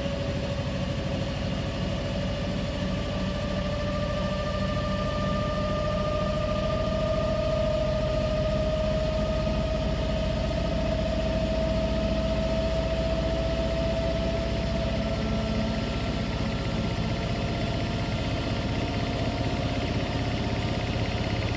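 Washing machine running, a steady hum and rumble with a motor whine that rises slowly in pitch.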